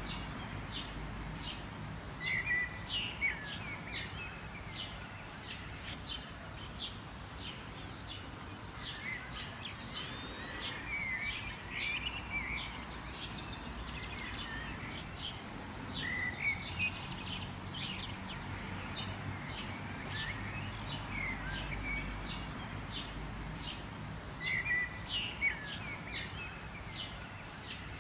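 Several birds chirping and calling, with short high chirps repeating many times a second in places and occasional warbled notes, over a low steady background rumble.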